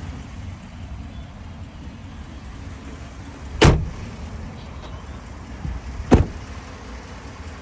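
Two sharp thumps about two and a half seconds apart, like a pickup's doors or panels being shut, over a low steady rumble.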